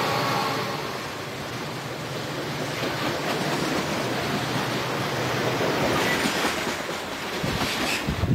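Freight train cars rolling past close at speed: a steady rumble and rush of steel wheels on the rails, with sharp clicks of wheels over rail joints near the end.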